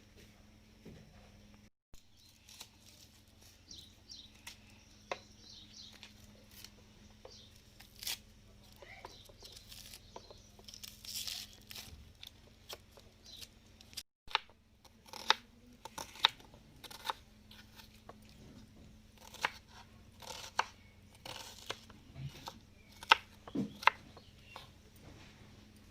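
Scattered sharp clicks, taps and tearing or crunching handling noises in irregular bouts, busier in the second half, over a faint steady hum.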